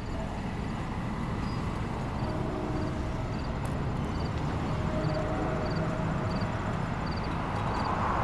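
NJ Transit diesel passenger train pulling away from the station, a steady low rumble that fades slowly. Faint high insect chirps repeat about one and a half times a second over it.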